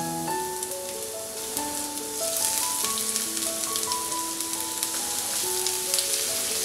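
Chopped garlic and ginger sizzling and crackling in hot oil in a nonstick wok, stirred with a wooden spatula; the sizzle grows denser and louder about two seconds in.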